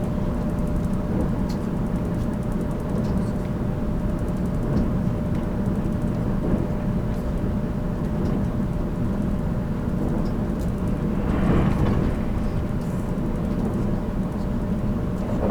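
Running noise inside a JR Kyushu 783 series limited-express motor car (MoHa 783) at speed: a steady rumble of wheels on rail with a faint steady tone, and a brief louder swell about eleven seconds in.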